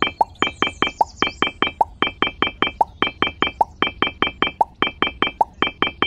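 Rapid, evenly spaced clicking taps, about five a second, each with a short bright ring, as miniature clay bricks are set down one after another around a toy pond's rim in sped-up footage.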